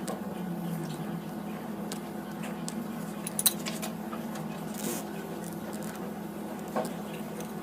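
Hands working on a flip-flop repair: scattered light clicks and taps of small objects being handled, a sharper click about three and a half seconds in and a short rustle near five seconds, over a steady low hum.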